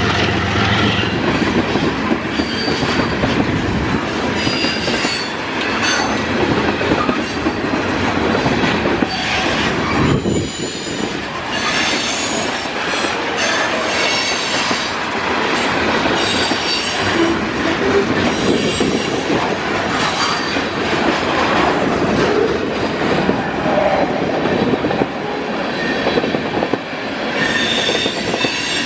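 Freight train cars rolling past close by: a continuous rumble and clatter of steel wheels on the rails, with thin high-pitched wheel squeal coming and going.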